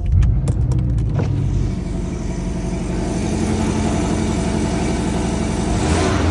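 Porsche 718 Cayman T's turbocharged flat-four engine starting up: it catches with a brief flare in revs during the first second or so, then settles to a steady idle. The engine has passed a professional inspection; its uneven flat-four note is what commenters took for a knock.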